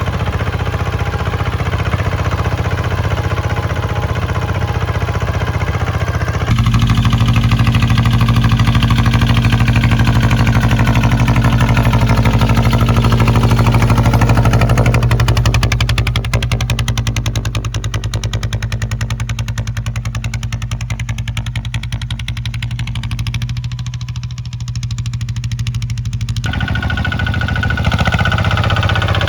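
Kubota ZT155 two-wheel tractor's single-cylinder diesel engine running steadily, with rapid even firing pulses; it grows louder about six seconds in and its tone shifts a few times after that.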